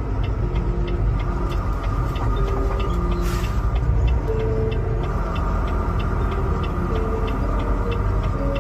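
Steady low engine and road rumble heard from inside a moving vehicle's cabin, with a fast, even ticking of about three ticks a second running through it.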